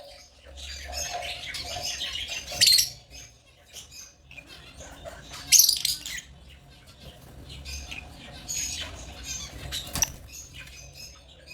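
African lovebirds chirping and chattering in shrill, scratchy bursts, loudest about two and a half and five and a half seconds in, with a sharp click near the end.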